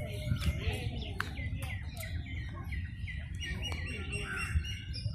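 Several birds chirping and calling in quick, short high notes, with a run of rapid repeated chirps near the middle, over a steady low rumble.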